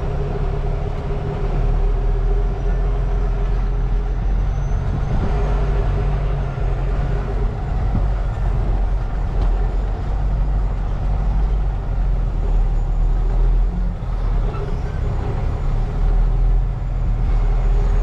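Diesel engine of a semi-truck tractor running steadily at low revs during slow manoeuvring, a continuous low rumble.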